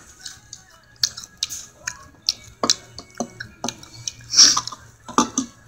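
A person chewing and eating with the mouth close to the microphone: irregular wet smacks and clicks of the lips and tongue, with a louder hissing sound about four and a half seconds in.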